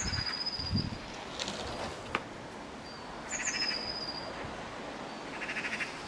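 Birds singing: a short high chirp followed by a long thin whistle, repeated a few seconds apart, with a rapid trill between phrases. A single sharp click about two seconds in.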